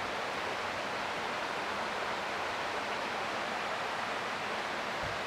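Creek water rushing over rocks in a steady, even wash.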